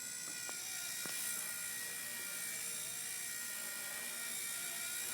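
Small battery-powered RC helicopter in flight: its electric motor and rotor give a steady high whine.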